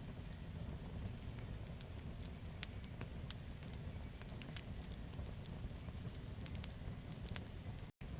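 Wood campfire crackling: irregular sharp pops and snaps over a steady low rumble of the flames. The sound cuts out completely for an instant near the end.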